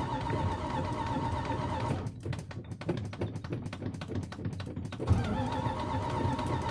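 Cold small-block V8 running, stumbling roughly for about three seconds midway, then catching again with a sudden loud burst and settling back into a steady run.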